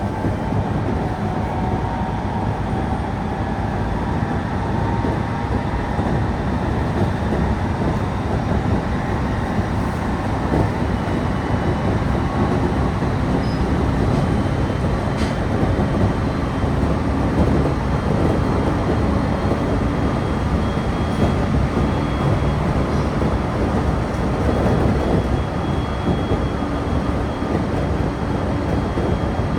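Electric passenger train running along the track, heard from inside the car: a steady rumble of wheels on rails, with a faint motor whine that rises slightly in pitch in the first few seconds.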